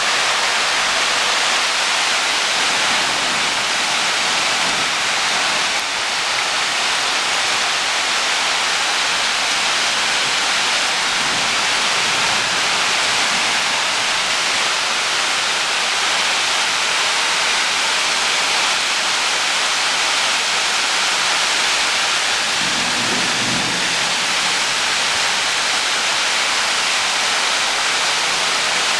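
Heavy rain pouring down in a steady, dense hiss. A brief low rumble comes in about 23 seconds in.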